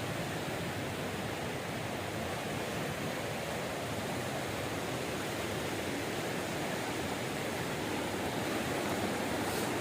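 Waterfall rushing: a steady, even wash of falling water that grows slightly louder near the end.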